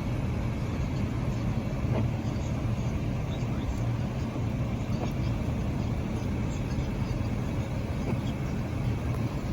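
Steady low rumble of a car on the move, its engine and tyres running evenly.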